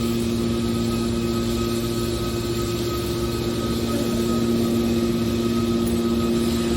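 Hydraulic scrap-aluminum baler running, its motor and pump giving a steady hum with a constant pitch.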